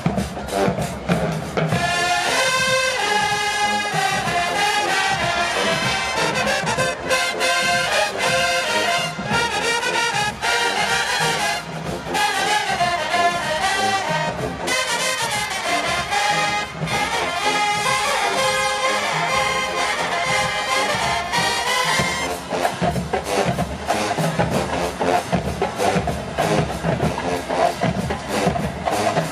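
HBCU show-style marching band playing: a loud brass section of trombones and trumpets carries a melody over the drums, then the horns drop out about three-quarters of the way through, leaving mostly the drumline.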